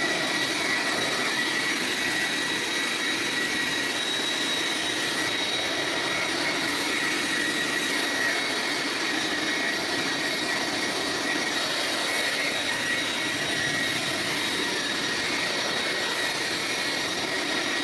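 Leaf blower running steadily, blowing water off a wet tractor: a rush of air with a steady high whine.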